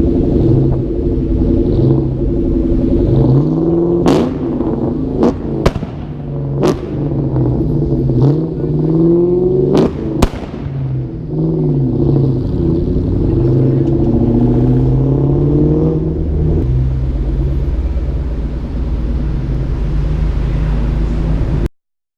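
Car engine being revved, its pitch climbing and falling several times, with a handful of sharp cracks in the middle. It cuts off suddenly just before the end.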